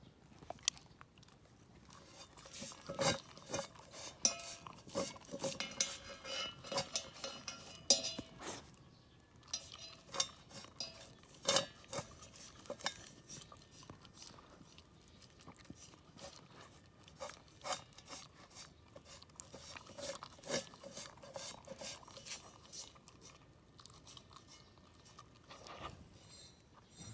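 A Shiba Inu licking out a metal pot after eating raw chicken wing tips. Irregular clinks, knocks and scrapes of tongue and snout against the pot, which rings faintly now and then.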